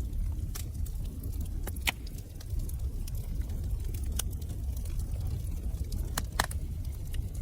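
Fireplace fire crackling over a steady low rumble, with scattered sharp pops; the loudest come about two seconds in and again about six seconds in.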